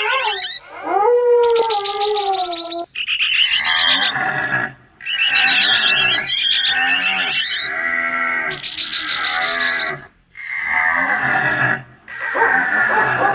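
Animal sound effects in quick succession: a gliding, wavering call for the first three seconds, then a string of big-cat roars broken by short pauses.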